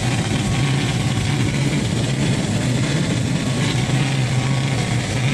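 Strong sandstorm wind rushing loudly and steadily, with a constant low hum underneath.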